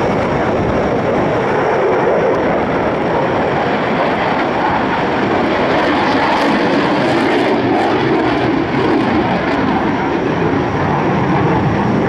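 Airplane flying at an air show, its engine a loud, steady rush of noise with no clear beat.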